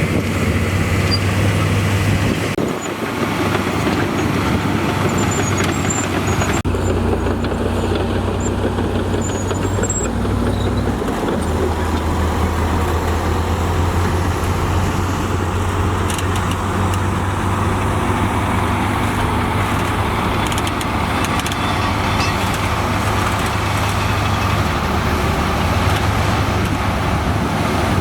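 Heavy diesel construction machinery running with a steady low drone that shifts abruptly a few times.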